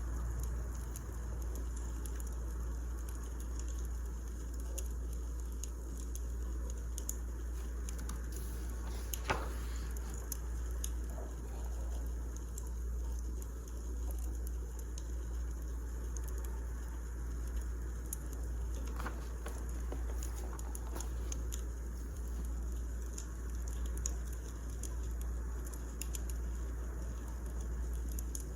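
Firewood burning in a fireplace: steady fine crackling with scattered pops, a louder pop about nine seconds in, over a low steady rumble.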